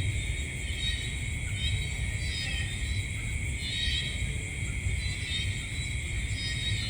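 Night insect chorus: a steady high-pitched buzzing with short chirping trills repeating about once a second, over a low rumble.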